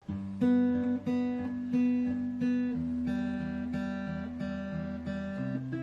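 Guitar playing a slow chord progression, each chord struck about every two-thirds of a second and left ringing. The chord changes about halfway through and again near the end.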